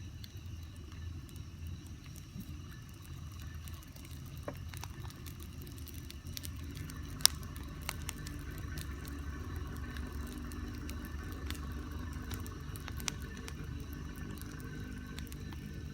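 Bonfire burning, with scattered crackles and pops over a steady low rumble; one sharp, loud pop comes about seven seconds in.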